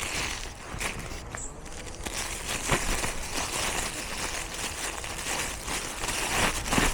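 Rustling and scuffing of footsteps on a leafy trail path, with a few sharp clicks, heard close up on a camera worn by a Jack Russell terrier.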